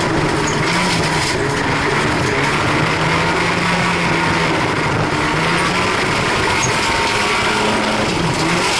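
Folkrace car's engine running hard under racing load, heard from inside the stripped, bare-metal cabin. The engine note drops slightly at the start, holds steady, then climbs again near the end.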